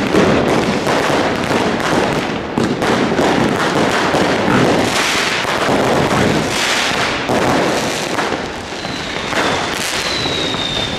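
New Year's fireworks and firecrackers going off continuously, many cracks and bangs overlapping into a dense crackle. Near the end, a high whistle sounds over it, falling slightly in pitch.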